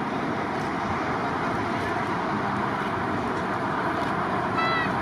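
Steady broad noise of jet airliner engines running, with a brief high-pitched chirp near the end.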